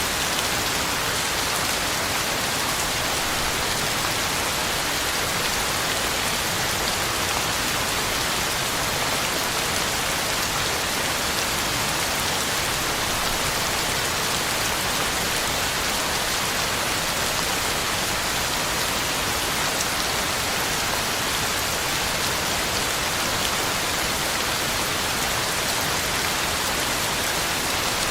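Heavy rain falling steadily, a dense even hiss of drops on the ground and leaves with no thunder.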